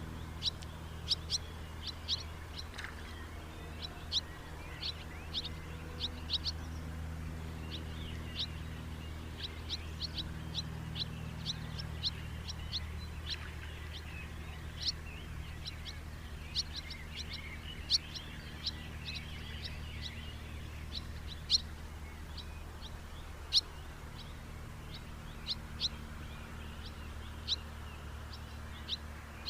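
House martins calling: a scatter of short, sharp, high chirps, often in quick clusters, over a steady low hum.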